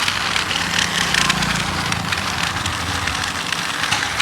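Gravel crunching and rattling with many small clicks, over the low steady hum of a remote-control toy tractor's motor.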